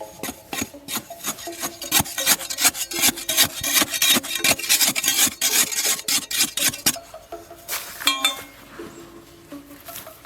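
Rapid rasping, scraping strokes, several a second, that stop about seven seconds in with a few more near the end, over quiet background music.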